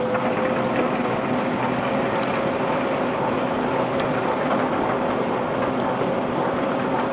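Ship's unloading conveyor belt running steadily, a constant mechanical noise with a faint steady hum under it.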